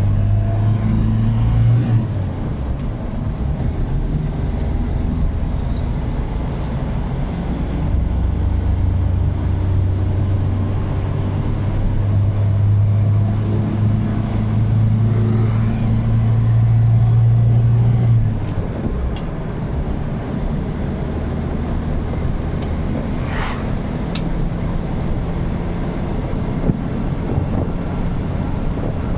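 Old Suzuki Katana's engine running as the car is driven, a steady low hum over road noise. The hum strengthens about eight seconds in, holds, and drops back about eighteen seconds in.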